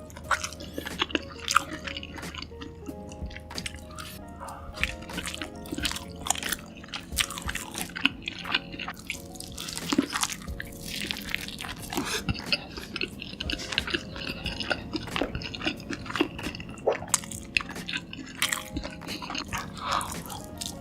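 Close-miked mukbang eating: repeated bites and chewing of sauce-covered food, over quiet background music.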